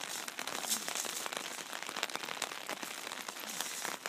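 Rain falling: a steady hiss with many small irregular ticks of drops.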